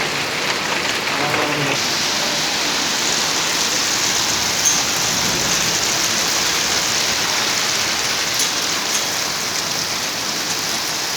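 Heavy rain pouring down in a steady, dense hiss, with a few sharp ticks standing out about five and eight seconds in.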